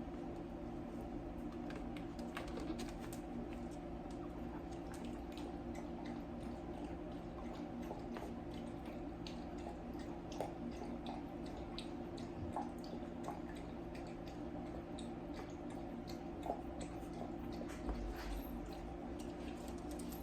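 Small wet smacking clicks from a dachshund and her newborn puppies, scattered irregularly over a steady low hum.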